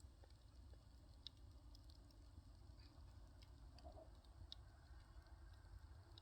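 Firewood fire burning quietly, giving off faint, sparse crackles and small pops every second or so over a low steady background.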